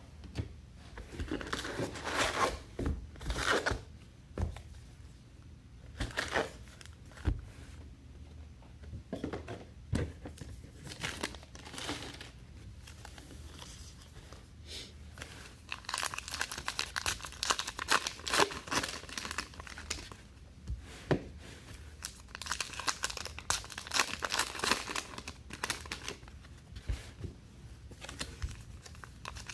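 Trading card pack wrappers being torn open and crinkled, with irregular rustling and crackling that gets busier about halfway through.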